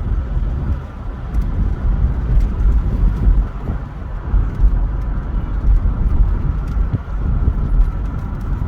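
A car driving, heard from inside the cabin: a steady, uneven low rumble of road and engine noise.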